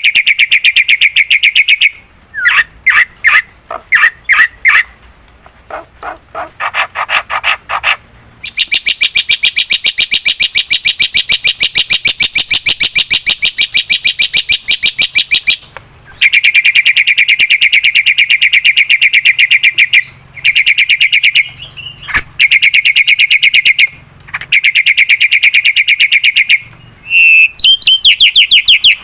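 Black-winged myna (jalak putih) calling in long, rapid rattling trills, each bout lasting several seconds and broken by short pauses, with shorter choppy phrases a few seconds in.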